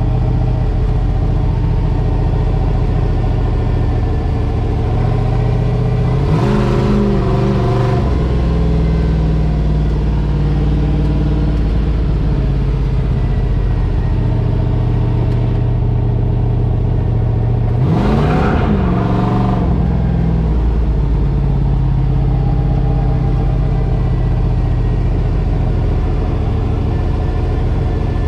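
Drift truck's engine running at a steady drone, revved up and back down twice: once about six seconds in and again about eighteen seconds in.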